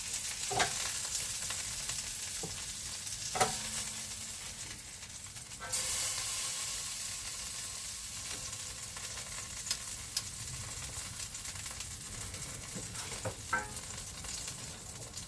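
Potatoes frying in butter in a pan, a steady sizzle with a few sharp clicks from a utensil against the pan. The sizzle gets louder about six seconds in.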